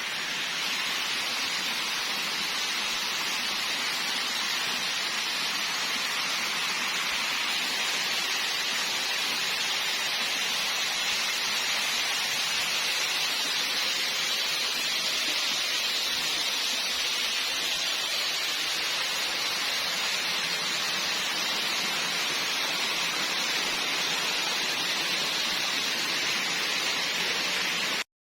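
Steady hiss of water, like rain or a rushing stream, even throughout and cutting off suddenly near the end.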